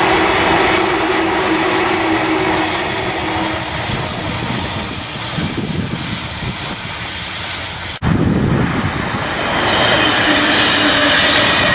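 Double-deck electric suburban trains passing close: first a Sydney Trains Waratah (A set), with a steady run of wheel and rail noise and a high hiss. About eight seconds in the sound cuts abruptly to a second double-deck train rolling past.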